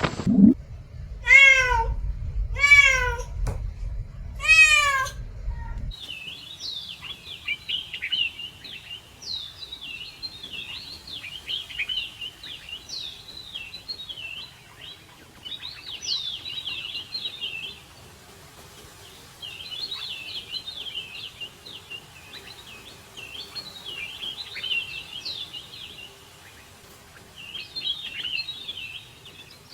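A cat meows three times, each a drawn-out call. After about six seconds the sound cuts to small birds chirping and twittering continuously, with a few short gaps.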